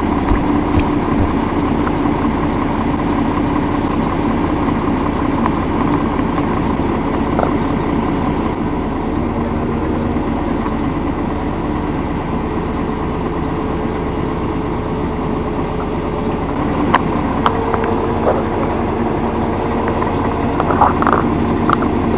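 A heavy vehicle's engine idling steadily, with a few faint clicks in the second half.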